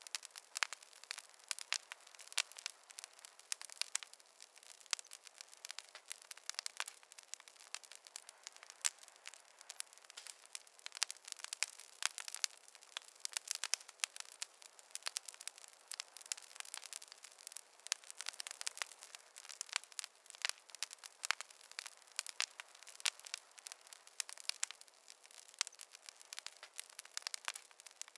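Campfire crackling: a continuous run of sharp, irregular pops and snaps over a thin hiss, with no low rumble of flames.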